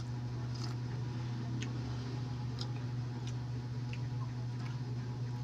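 Steady low hum with faint, irregular clicks about once a second: small mouth and chewing noises of someone eating balut.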